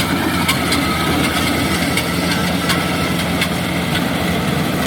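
Kubota DC70G rice combine harvester running steadily under load: a constant diesel engine hum with a high whine from the machinery and faint scattered ticks.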